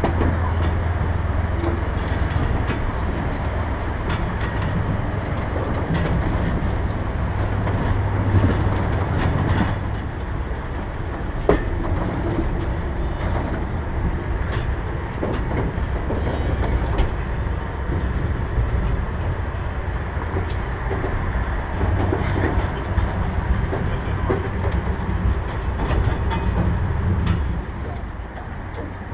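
Old train running along its track: a steady low rumble with scattered clicks and knocks from the wheels and cars.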